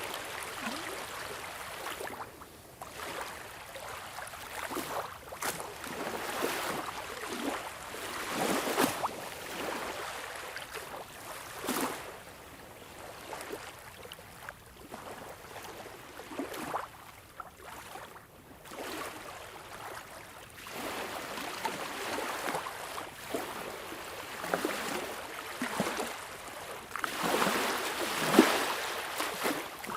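Sea waves washing and lapping: a steady hiss of moving water that swells in irregular surges every few seconds, with a larger surge near the end.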